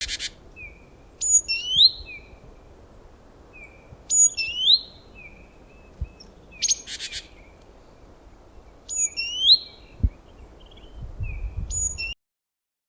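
A songbird singing a short phrase over and over, about every four seconds: a sharp high note that drops in pitch, then a rising whistle, with short softer chirps in between.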